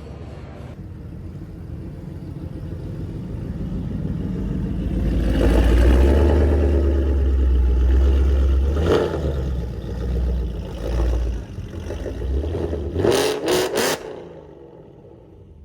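A vehicle engine running, building over several seconds to a loud, deep rumble, then a few quick revs before it fades.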